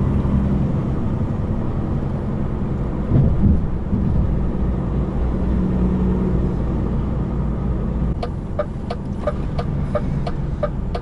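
A truck's diesel engine running at low speed, heard from inside the cab, with a brief louder knock about three seconds in. About eight seconds in, the turn indicator starts ticking, roughly two to three ticks a second.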